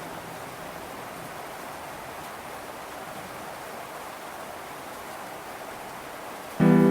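Steady hiss of rain falling. Near the end a loud plucked note of gentle music starts suddenly and rings on.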